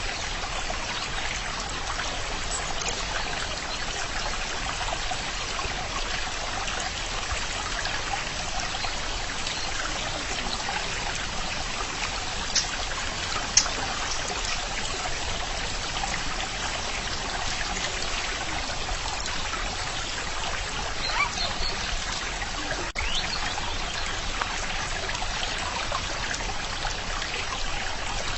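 Stream water trickling and running steadily, with a few brief sharp sounds about halfway through and again later.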